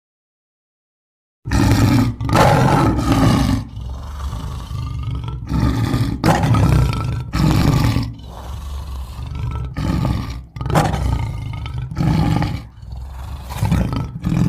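Custom creature sound effect for a gorilla-giraffe hybrid monster: after a second and a half of silence, a run of loud, repeated roars and growls, one after another.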